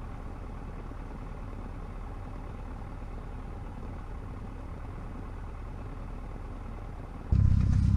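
Cessna 150's four-cylinder Continental O-200 engine idling, a steady low rumble heard inside the cabin. About seven seconds in it suddenly turns much louder and deeper.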